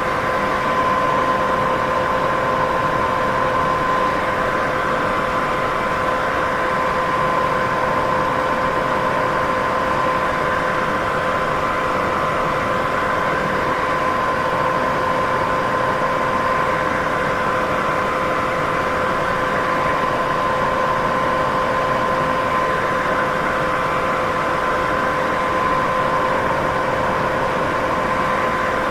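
Steady white noise for sleep: an unchanging hiss with a constant hum note running through it.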